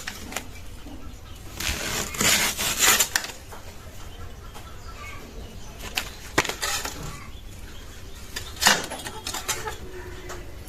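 Knife cutting into a palm fruit: a quick run of noisy chops and slices about two to three seconds in, then single sharp knocks about six and nine seconds in.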